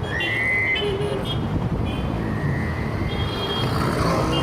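Heavy, congested city traffic: vehicle engines running in a steady dense rumble, with car horns honking several times, once right at the start, again about three seconds in and again at the end.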